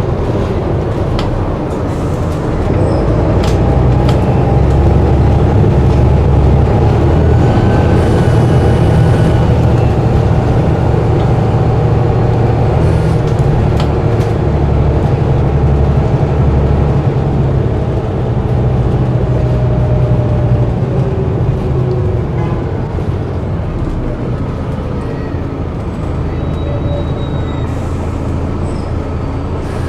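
Diesel bus engine running steadily, its pitch gliding gently up and down, with a few sharp clicks and rattles.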